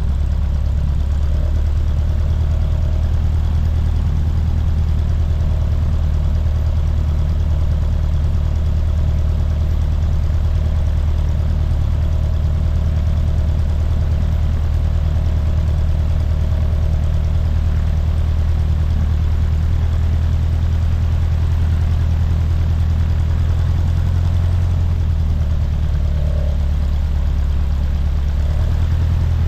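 Cessna 150's four-cylinder piston engine running at a steady low drone, with a slight shift in pitch near the end.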